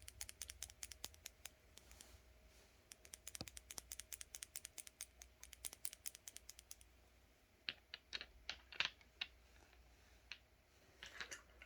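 Nail polish bottle being shaken so the metal mixing bead inside clicks against the glass: a quick, even run of small clicks for about seven seconds, then a few scattered clicks.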